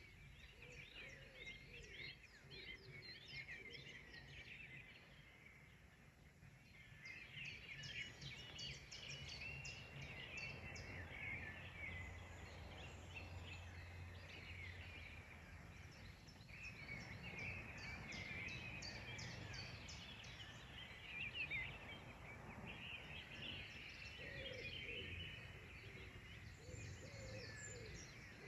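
Several birds singing at once, a faint, busy chorus of short chirps and trills that keeps going with small pauses. A faint low hum sits underneath at times.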